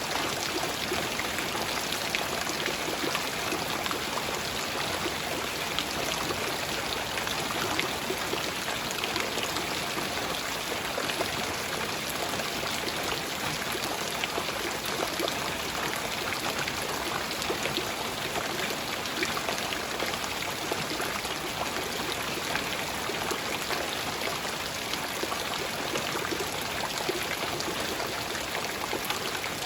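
Steady light rain falling, a dense, even patter of many small drops with no let-up.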